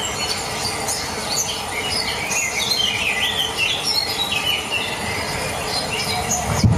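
Many birds chirping and whistling at once, short overlapping calls over a steady hiss. It cuts off abruptly near the end as a low pulsing sound begins.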